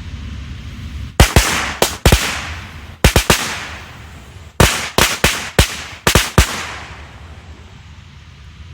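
A string of firecrackers going off: about a dozen sharp bangs in irregular clusters over some five seconds, each ringing out briefly.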